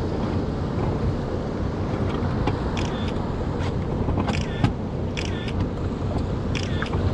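Boat engine running steadily, with several short high-pitched chirps over it in the second half.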